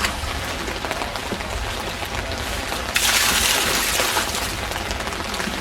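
Steady hiss of rain and floodwater. About three seconds in, a louder, brighter hiss swells for about a second.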